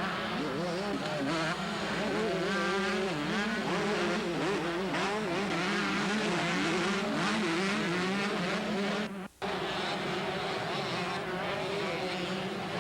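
Several two-stroke motocross bikes racing, their engines revving up and down as they run the course. The sound cuts out for a split second about nine seconds in.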